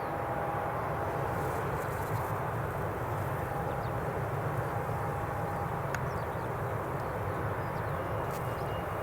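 Airbus A340-300's four CFM56 jet engines running at taxi power, a steady rumble with a thin whine that comes and goes.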